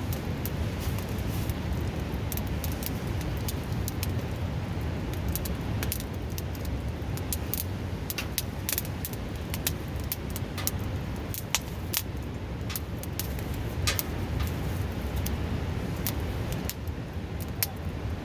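Wood fire crackling, with frequent sharp irregular pops and snaps, over the loud steady rush of a nearby river.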